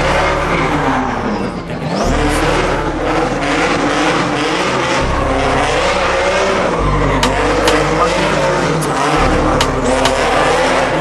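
Car engine revving up and down hard while its rear tires spin in a burnout, with tire squeal.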